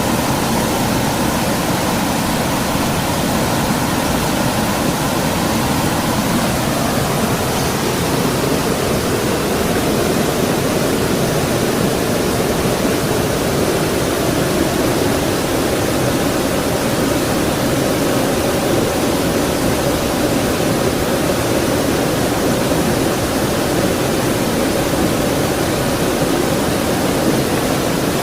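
Creek water flowing, a loud, steady rushing with no break.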